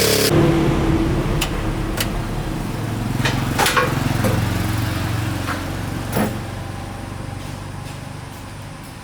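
An engine running at idle, a steady low hum that fades gradually, with a few sharp clicks and knocks over it.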